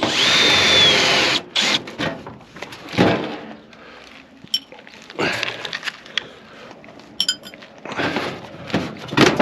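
Power drill whirring for about a second and a half, backing out a screw from a microwave oven's sheet-metal casing, followed by several clanks and knocks as the metal panels and parts are handled.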